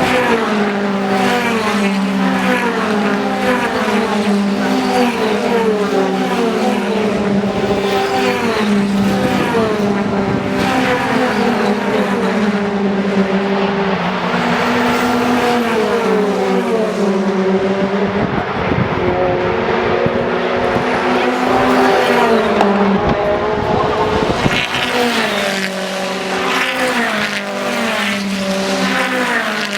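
Several BTCC touring cars' two-litre turbocharged four-cylinder engines running hard, their pitch rising and dropping in steps as they shift gears. There is some tyre noise under them.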